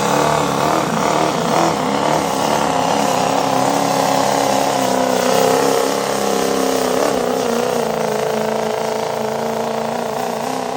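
Diesel pickup truck engine held at high revs, a loud steady drone whose pitch wavers slightly.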